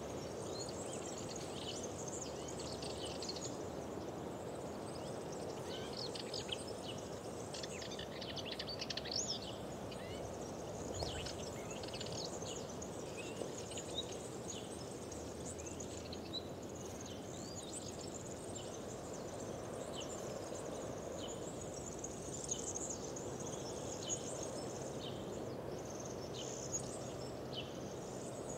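Several songbirds singing and chirping in quick, overlapping phrases over a steady low rush of outdoor background noise.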